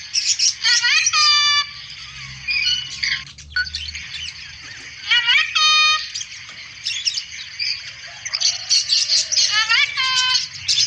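Cockatoo mimicking speech, saying 'assalamualaikum' in a high-pitched voice, the phrase repeated about three times, with faint chirps between.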